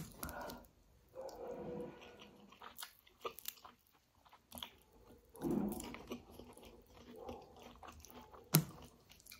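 Close-up chewing and wet mouth sounds of a person eating kadhi chawal (rice in a yogurt and gram-flour curry with pakoras), along with soft squishing of fingers mixing the rice and curry on a steel plate. Quiet gaps between bursts of chewing, with a few sharp clicks, the sharpest one near the end.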